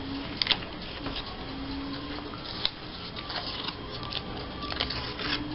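Paper stickers and cutouts being handled on a tabletop: light rustling with scattered small clicks and taps.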